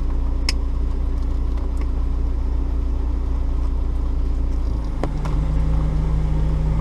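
An engine idling steadily with an even low hum. It is broken by a sharp click about half a second in and another near five seconds, after which a second steady low hum joins in.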